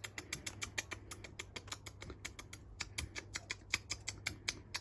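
Cockatiel tongue clicking: a rapid, even run of sharp clicks, about seven a second. A cockatiel clicking back like this is a friendly signal.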